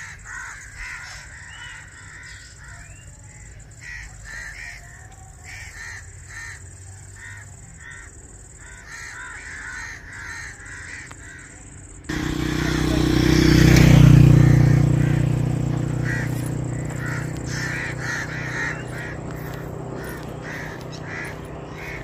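Birds calling over and over in short repeated calls. About twelve seconds in, a low rumble starts suddenly, swells to the loudest point a couple of seconds later and slowly fades while the calls continue.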